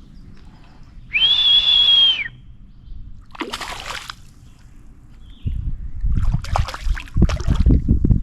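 A single steady high whistle held for about a second, then water splashing and sloshing with knocks and thumps, which grow busier after the middle.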